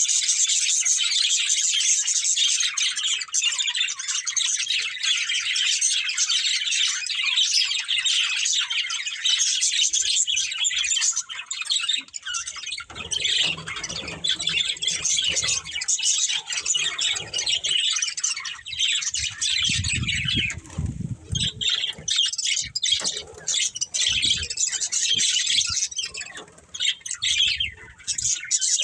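A group of budgerigars chattering and chirping, dense and continuous at first. In the second half the chatter thins out and low bumps or rustling come and go.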